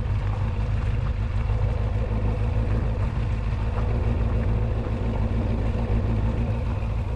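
Motorcycle engine running at a steady speed while riding, with a steady low drone and road noise.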